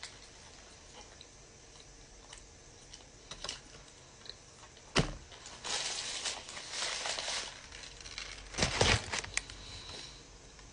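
Eating noises close to the microphone: a bite of a double cheeseburger being chewed while its paper wrapper crinkles. A sharp tap about halfway through, and the loudest rustling bursts come in the second half.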